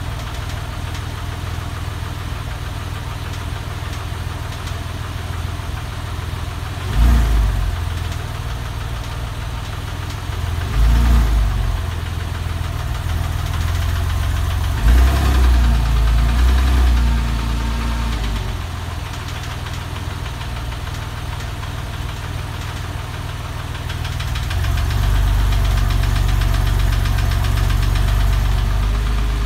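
Porsche 996's flat-six engine idling, with short rises in revs about 7, 11 and 15 seconds in, and held at higher revs for the last few seconds.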